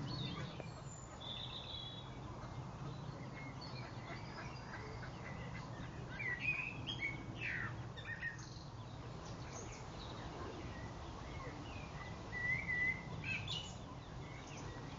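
Birds chirping in short calls and quick falling notes, a cluster about six to eight seconds in and another around twelve to thirteen seconds, over a steady low background rumble.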